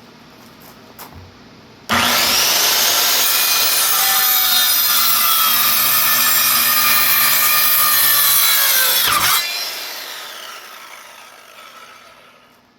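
Electric power saw starting up with a rising whine, cutting through a wooden board for several seconds, then switched off and winding down with a falling whine.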